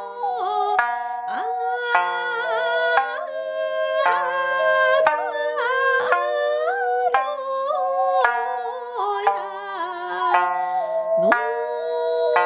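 Sanshin, the Okinawan three-stringed lute, plucked in a steady beat of about one note a second, with a voice singing a sliding, ornamented melody over it.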